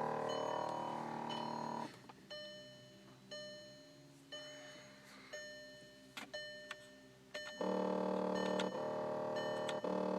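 Loud electrical buzz from behind the passenger-side floor panel, a steady pitched drone that cuts out about two seconds in and comes back loudly near the end. While it is off, faint short ticks sound about once a second. The cause of the buzz is unknown.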